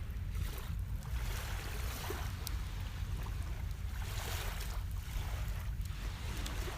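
Water washing and splashing in repeated swells over a steady low rumble, with wind on the microphone.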